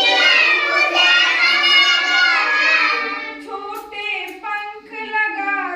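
A child's high voice singing a Hindi children's rhyme in a sing-song tune, with one long phrase and then shorter, broken phrases from about three seconds in.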